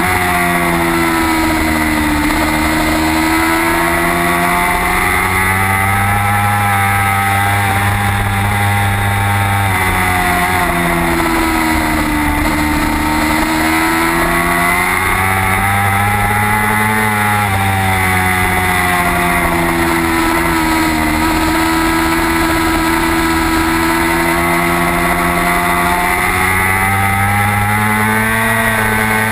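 Race motorcycle engine heard from onboard at racing speed, its pitch climbing under acceleration and dropping off into corners several times. A steady rush of wind noise runs under it.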